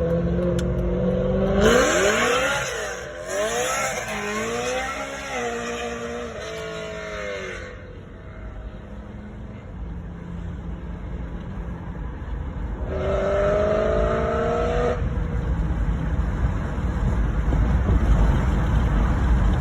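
BMW E92 M3's V8 with a loud aftermarket-sounding exhaust, revving hard several times with the pitch climbing and dropping, then settling to a lower rumble. It revs briefly again, and the rumble builds toward the end.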